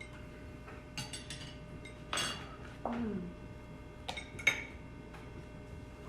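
Cutlery clinking against dishes during a meal: scattered short clicks and clatters, in groups about a second in, around two seconds in, and again around four seconds in.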